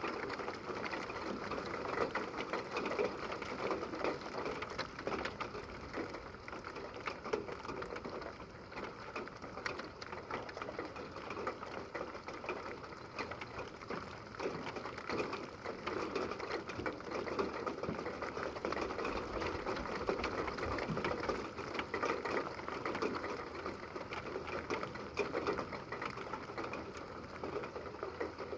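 Heavy rain in a thunderstorm, a steady dense rush of drops with many small ticks and no thunder.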